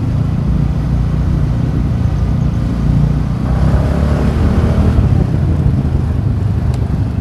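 TVS Ntorq 125 scooter's single-cylinder engine running through its stock exhaust while riding. It gets louder for a couple of seconds around the middle.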